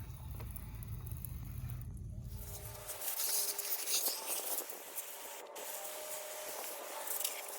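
A steady low rumble for the first two seconds or so, then a hissing spray of liquid in repeated bursts onto the bike.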